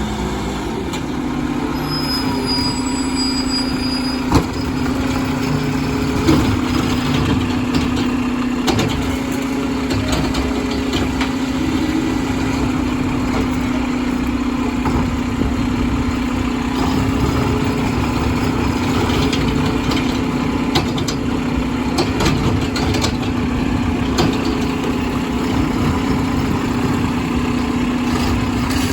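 Diesel engine of a Mack garbage truck running at a steady speed, with a couple of short knocks about four and six seconds in.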